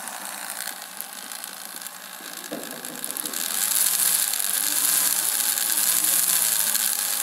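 Radio-controlled Scania model truck running with its engine sound, which rises and falls in pitch from about three seconds in, over a steady mechanical hiss that grows louder at the same time.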